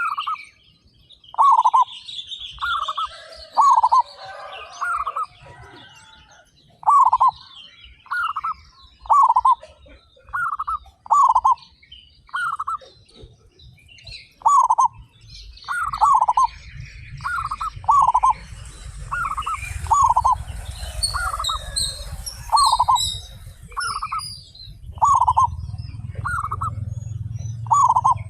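Zebra doves (perkutut) cooing: short, low coos repeated about once a second, with small birds chirping higher above them. A low rumble comes in during the second half.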